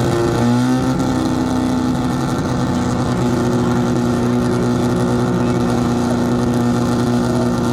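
Car engine running hard: its revs drop about half a second in, then hold at a steady high speed.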